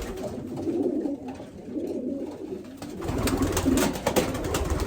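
Racing pigeons cooing, a low wavering coo, with a few sharp clicks in the second half.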